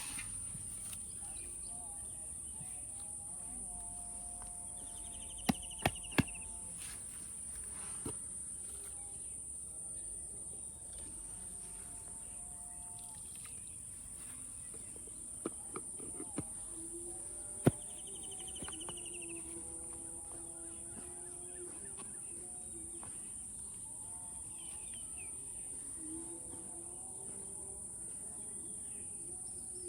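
Outdoor countryside ambience: a steady high-pitched insect drone, with a short falling bird call twice and a few sharp clicks.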